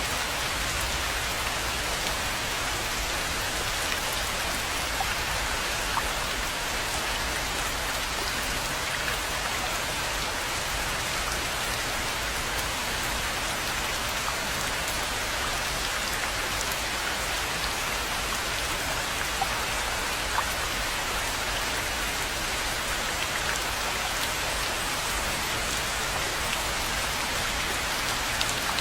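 Steady rain falling on a rainforest pond, an even hiss with scattered louder drop ticks.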